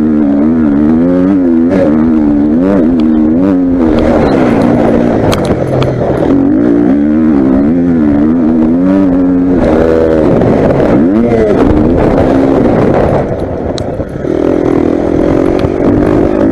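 Motocross bike engine revving up and down over and over as the throttle is worked, with a short drop in level near the end before it picks up again.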